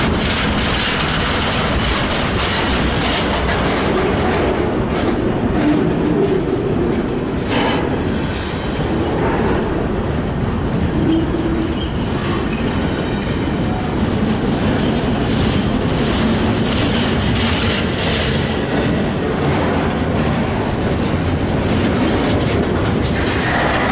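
Double-stack intermodal freight train's well cars rolling past close by: a loud, steady rumble of steel wheels on rail with scattered clicks and clatter as the trucks pass over the track.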